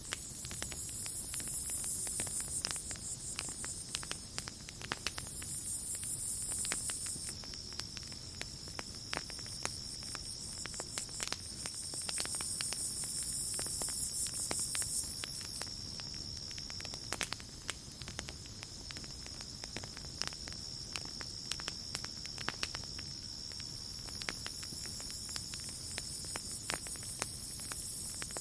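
Campfire crackling with frequent sharp pops, over a steady high chirring of night insects. A second, higher insect buzz comes and goes several times.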